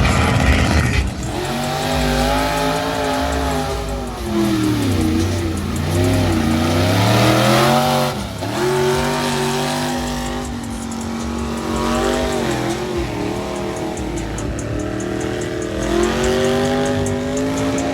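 Big truck engine revving hard again and again, its pitch climbing and dropping in long sweeps every few seconds.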